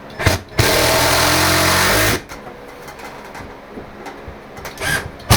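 Power drill running steadily for about a second and a half, driving a screw to fasten a light fixture, with a sharp knock near the end.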